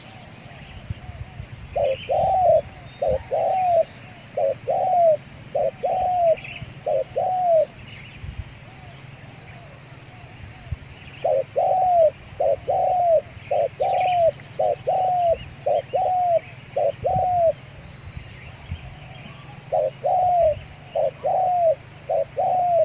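Spotted dove (tekukur) cooing in three runs of repeated low coos, the longest about eight notes. A steady high hiss and faint small-bird chirps sound behind it.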